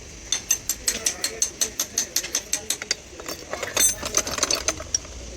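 Hand ratchet wrench clicking in quick, even strokes, about six or seven clicks a second, then a faster, denser run of clicking a little past the middle.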